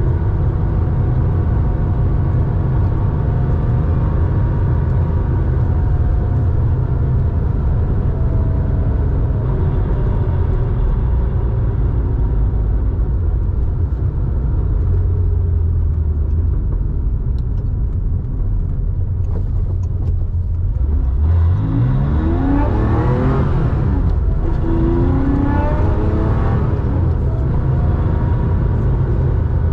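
A Porsche 911's 3.4-litre air-cooled flat-six, breathing through a 2-in-1-out muffler, running at steady cruising revs with a deep drone. About two-thirds of the way through it accelerates: the revs climb, drop at a gear change, climb again, then settle back to cruising.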